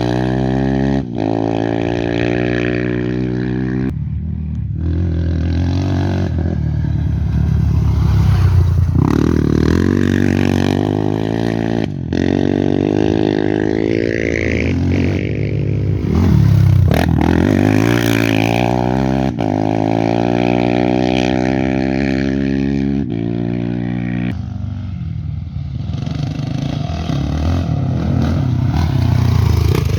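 Off-road race motorcycle engines revving hard, the pitch climbing and then dropping at each gear change, several times over.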